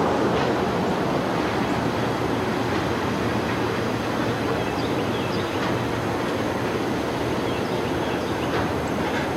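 A train passing: a steady rumble of wheels on rail with a faint low hum and a few light high-pitched ticks.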